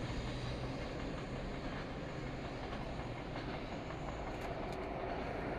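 JR freight train's container flatcars rolling away on the rails: a steady rumble of steel wheels on track with a few faint clicks.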